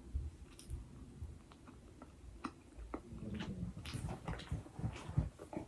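A person chewing food, with scattered short mouth clicks and soft low thumps.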